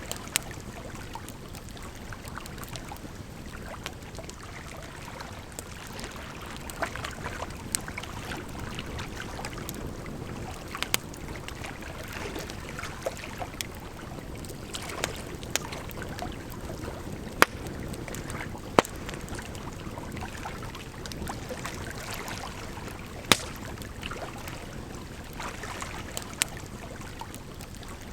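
Campfire crackling, with scattered sharp pops a few seconds apart, over a steady rush of running water.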